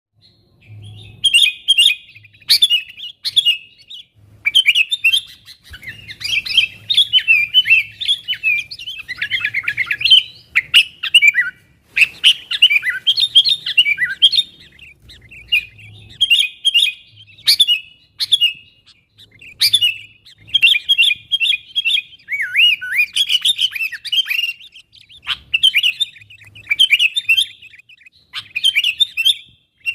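Sooty-headed bulbul (kutilang) chattering loudly, the excited calling that summons its flock mates: rapid bursts of bright chirps, one after another with short pauses, some notes sliding down in pitch.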